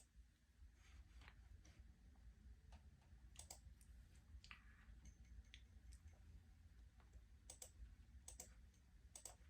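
Near silence: faint, scattered sharp clicks, several in quick pairs, over a steady low room hum.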